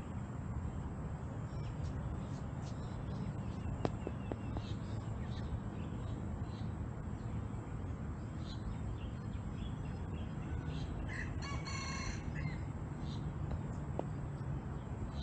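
Birds calling: scattered short high chirps, then one longer, pitched call about eleven seconds in, over a steady low rumble.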